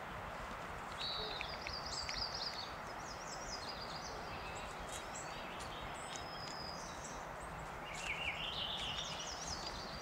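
A songbird singing in rapid, trilling high-pitched phrases over steady outdoor background noise: one run of song starts about a second in and lasts a few seconds, and another comes near the end.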